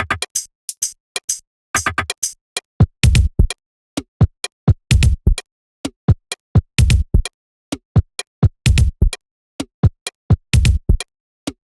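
Electronic drum-machine beat without vocals: sharp snare and hi-hat hits with a deep kick drum landing about every two seconds.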